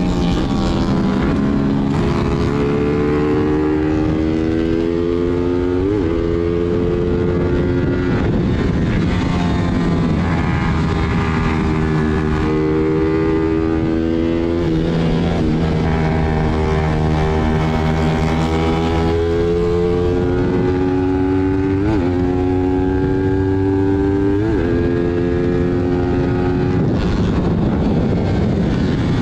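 Single-cylinder 150 cc-class sport motorcycle engine heard from on board while riding. The pitch holds and drifts up and down with road speed, with a few sudden jumps, over a steady rush of wind.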